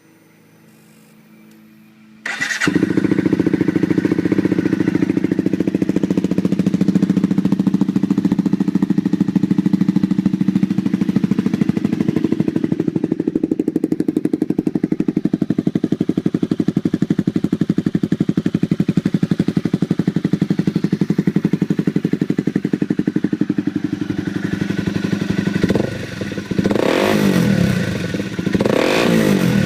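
A 2012 Honda CBR250R's single-cylinder engine breathing through an MGP Growler aftermarket exhaust. It starts about two seconds in and idles steadily, then is revved three or four times near the end.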